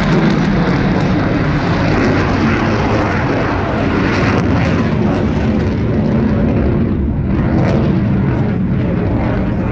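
A fast military jet flying a display: loud, steady jet engine noise that thins out a little in the last few seconds.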